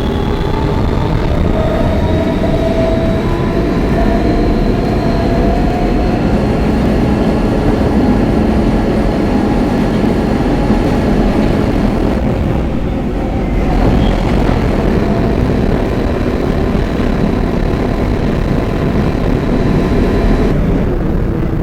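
R160B subway car with Siemens propulsion, heard from on board as it gets under way: the traction motors' whine rises in pitch over the first few seconds and then holds, over steady rumble from the wheels and rails.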